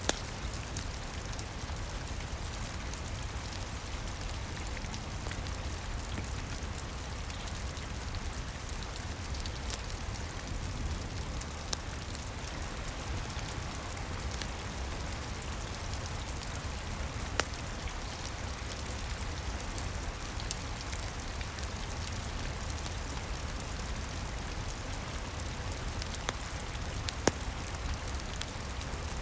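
Steady rain pattering on a roof, with a few sharp pops of a crackling wood fire scattered through it.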